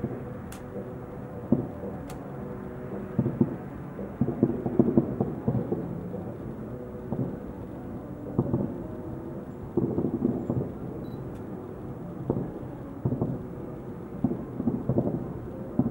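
Distant fireworks salute: irregular clusters of dull booms and bangs, several volleys close together with short gaps between them.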